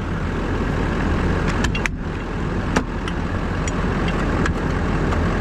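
Pickup truck engine idling steadily, with a few light clicks and knocks over it.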